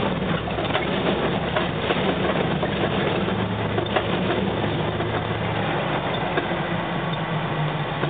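Homemade truck's engine running under way, a steady low drone whose note shifts about two-thirds of the way through, with scattered rattles and knocks from the truck.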